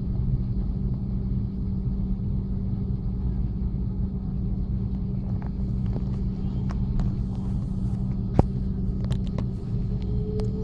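Airbus A330-300 cabin during takeoff: a steady low rumble of the jet engines and airflow with a constant hum, and a rising tone coming in near the end. A few sharp clicks sound in the cabin late on, one louder than the rest.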